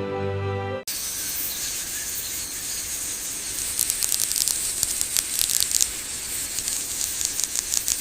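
Piano music cuts off about a second in, giving way to a steady hiss with quick crackles and ticks that grow denser from about four seconds in.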